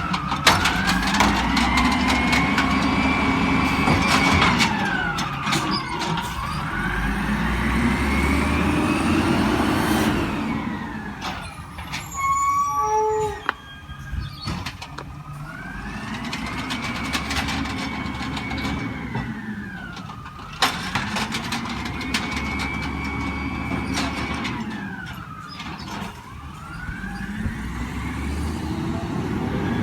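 Emergency vehicle siren wailing, slowly rising and falling in pitch about every five to six seconds, over a heavy truck engine running low underneath. The wail breaks off for a few seconds midway.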